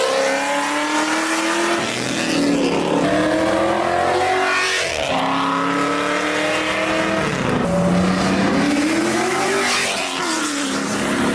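Car engine revved hard, its pitch climbing and then dropping sharply again and again, about every two to three seconds.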